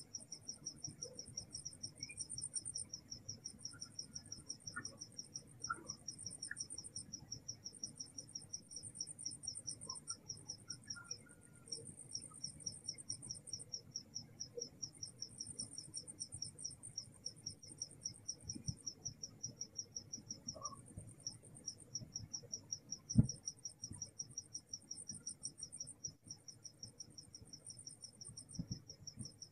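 Night insects calling: a high, rapid, evenly pulsed cricket-like chirping runs on, while a second, higher insect buzz comes and goes in stretches. A single sharp knock sounds about 23 seconds in.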